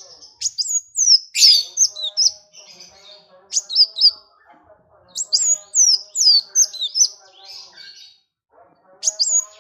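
Songbird singing quick phrases of high, sharply downward-slurred whistled notes in bursts with short pauses between, over fainter, lower, broken chatter.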